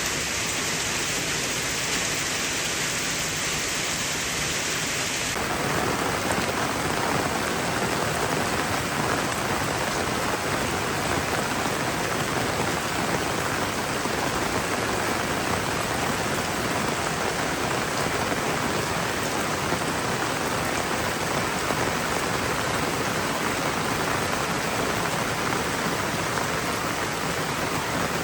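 Heavy rain pouring steadily. About five seconds in, the sound changes abruptly to a fuller, deeper and slightly louder rush.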